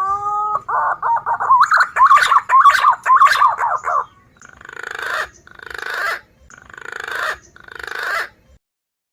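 Green pigeon (punai) call played as a bird-trapping lure: a rising whistle, then about three seconds of warbling whistles, then four rough, buzzy notes about a second apart. It stops shortly before the end.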